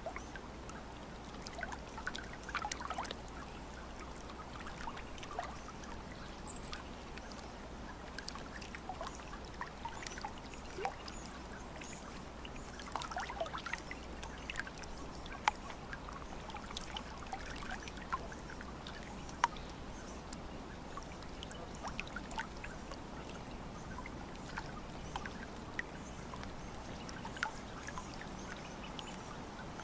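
Small waves lapping at a lake's edge: soft, irregular little splashes and trickles, with a steady low rumble beneath.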